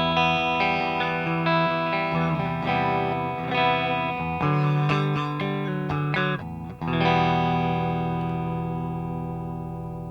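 Electric guitar played through a Madbean Nom Nom, a Phase 90-style phaser pedal, demonstrating its phasing sound. Picked notes and chords change for about the first seven seconds, then a chord is struck and left to ring out, slowly fading.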